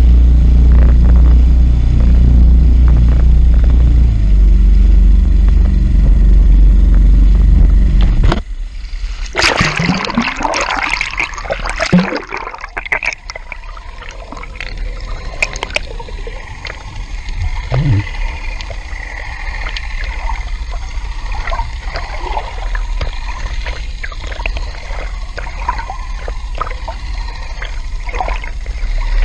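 A heavy, steady low rumble for about eight seconds that cuts off abruptly, then water splashing loudly, followed by gurgling and small irregular water sounds.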